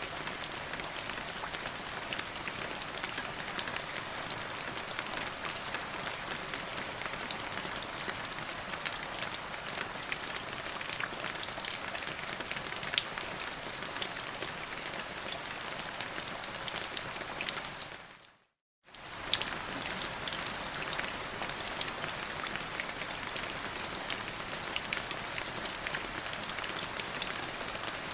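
Steady rain falling, an even hiss dotted with the ticks of individual drops. About eighteen seconds in it fades out to silence for roughly half a second, then comes straight back.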